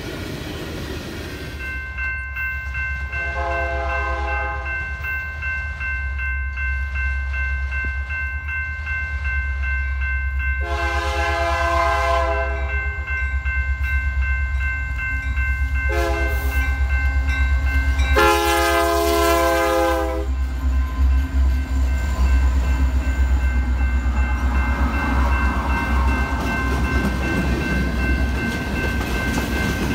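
Diesel locomotive horn blowing the grade-crossing signal: two long blasts, a short one and a final long one, over the steady low rumble of the passing train. A steady high ringing tone runs beneath the horn throughout.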